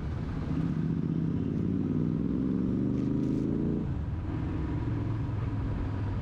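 Motorcycle engine running while riding, its pitch rising steadily for about three seconds as it accelerates, then dropping suddenly about four seconds in.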